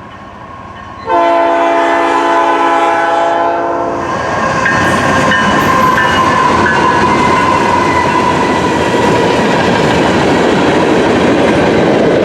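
Horn of a CN freight train's lead diesel locomotive sounding one long chord-like blast about a second in, lasting about two and a half seconds, followed by the steady rumble and clatter of the locomotives and freight cars rolling past.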